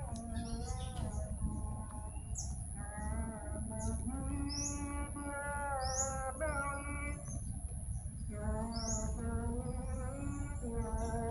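Birds calling in the trees: several drawn-out pitched notes and a few short rising chirps, over a steady low rumble.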